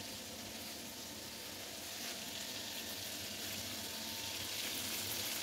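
Minced-meat kebab patties sizzling steadily as they shallow-fry in oil in a flat pan, growing a little louder toward the end.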